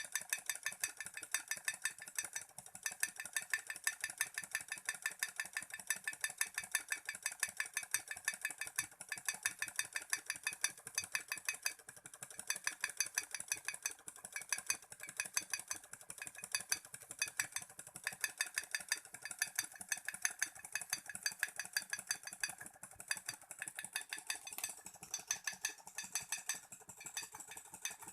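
Small Stirling engine running, its moving parts clicking and rattling in a fast, steady rhythm.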